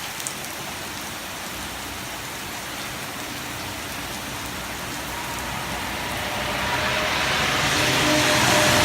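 Steady heavy rain falling, with a truck approaching on the wet road and growing louder over the last few seconds.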